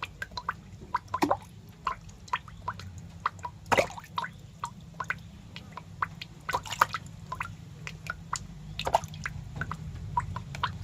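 Irregular wet clicks and squelches, a few a second, with a louder one now and then, over a steady low hum.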